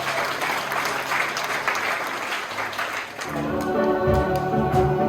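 Audience applauding, fading out about three seconds in, followed by instrumental music that starts with held chords over a steady bass line.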